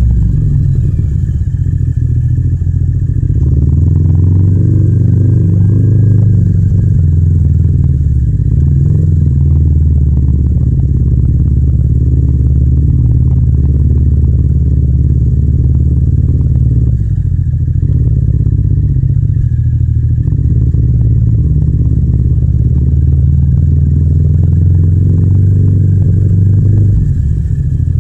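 Yamaha MT-07's 689 cc parallel-twin engine and exhaust running under way, heard from the rider's seat, the engine note holding fairly steady. It drops briefly about two-thirds of the way through and again near the end, as the throttle eases off.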